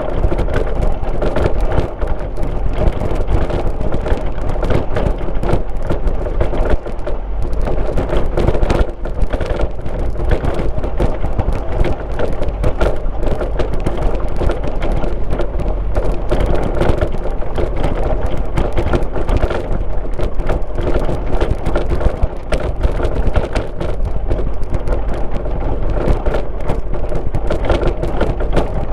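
Car driving: steady tyre and road noise with engine, a dense rumble scattered with many small knocks and crackles.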